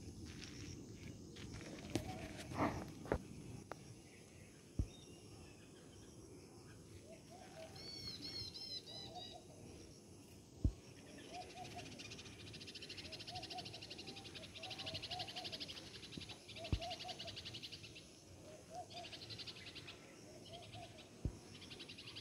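Birds chirping: short repeated chirps throughout, a quick run of higher twittering about eight seconds in, and a fast, high trill from about halfway on. A few sharp clicks stand out.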